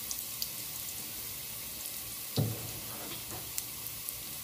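Sliced ginger frying in oil in a pot, a steady sizzle with scattered crackling pops as it is wilted to bring out its flavour. A single short knock about two and a half seconds in.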